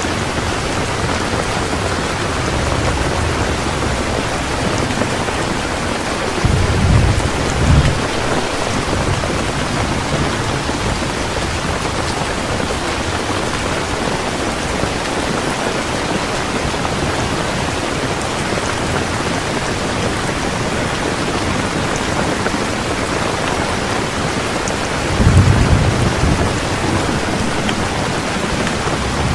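Heavy rain falling steadily, with thunder rumbling twice, about seven seconds in and again near the end.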